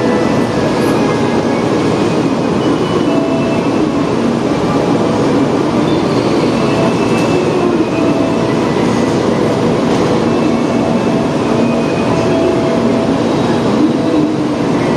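Steady loud hum and rumble of a shinkansen standing at a station platform, with a few faint short tones in the background.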